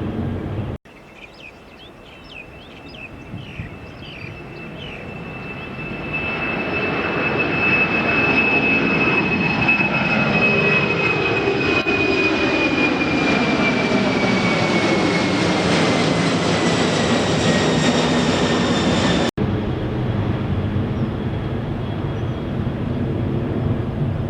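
Jet airliner engines at takeoff: a rush that builds over several seconds to a loud steady roar, with a high turbine whine that slowly falls in pitch as the aircraft goes past. The sound cuts off abruptly about three-quarters of the way through, leaving a steady background hum.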